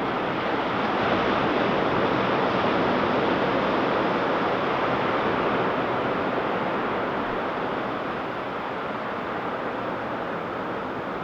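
Ocean surf breaking and washing on a beach: a steady, even rush of waves that eases slightly partway through.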